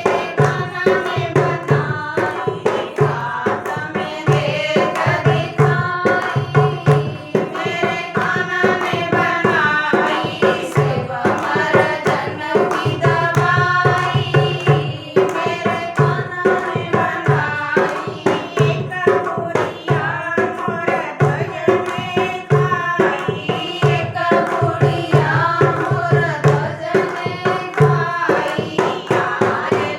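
A woman singing a Hindi devotional bhajan over a fast, steady hand-drum beat.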